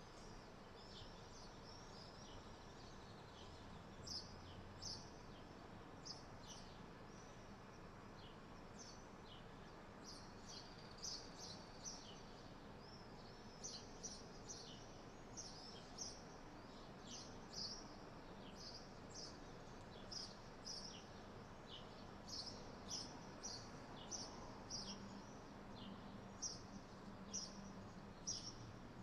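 Swallows calling high overhead: faint, short, high chirps repeating irregularly, busier from about ten seconds in, over a steady low background hiss.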